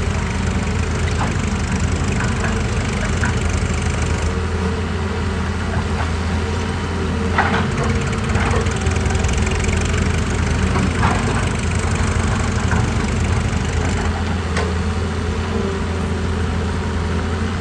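Excavator's diesel engine running steadily with a deep hum, with a few short sharp knocks and cracks scattered through it.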